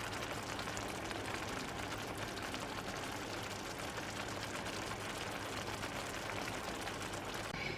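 Steady stovetop cooking noise as leftover meatballs in tomato sauce and pasta heat up: a low hum with a fine, even crackle.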